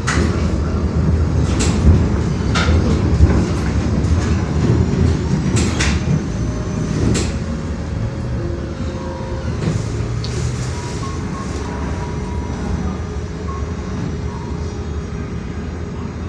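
Low rumble of a moving vehicle, with sharp clicks and knocks during the first several seconds, easing off slightly towards the end.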